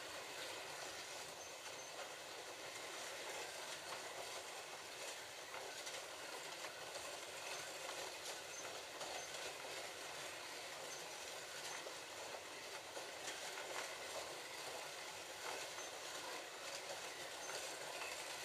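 Slot cars lapping a plastic track: a steady whir of their small electric motors and the rattle of the cars along the track slots, with occasional faint clicks.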